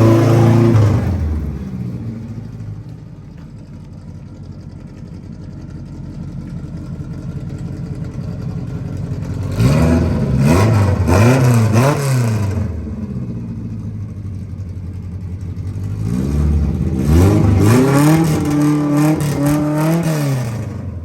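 A 1600 cc car engine under way. It runs loudly and winds down at first, then runs quieter and steady for several seconds. It then pulls hard twice, its pitch rising and dropping several times in each pull, like revving up through the gears.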